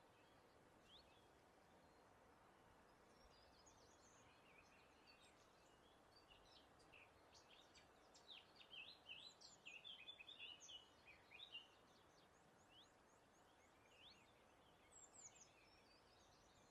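Faint birdsong: quick high chirps and short trills, busiest in the middle and again briefly near the end, over a soft steady hiss of breeze.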